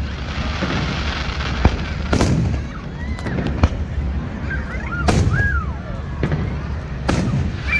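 Fireworks going off: a series of sharp bangs, about five loud ones spaced a second or two apart, over a continuous rumble and crackle of further bursts.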